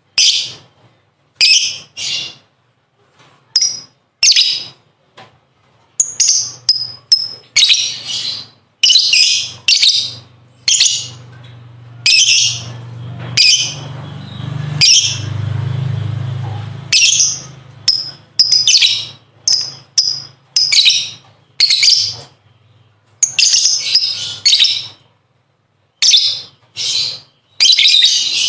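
Lovebird chattering in shrill, high-pitched bursts, some short and choppy, others running on for a second or more: the long 'ngekek' chatter.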